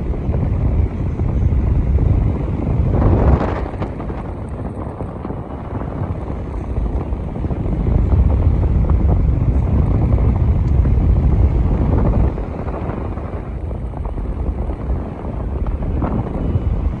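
Britania Turbo 400 table fan, 40 cm and 140 W, running with its airflow buffeting the microphone as a loud low rumble. The rumble swells and eases every few seconds.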